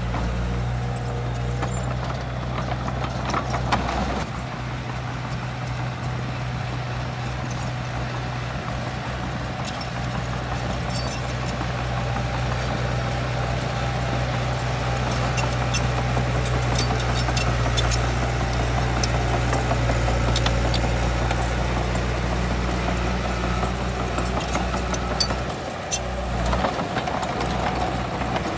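Heavy diesel earthmoving machinery running steadily under load, with scattered metallic clanks and rattles.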